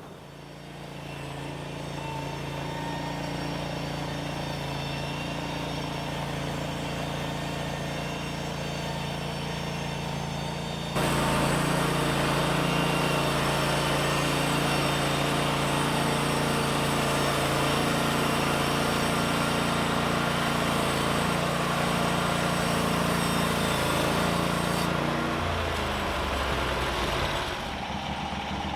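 Engine-driven sawmill running steadily. About eleven seconds in, a louder, rougher noise sets in over the engine as the blade saws through the log, easing off near the end as the engine drops back.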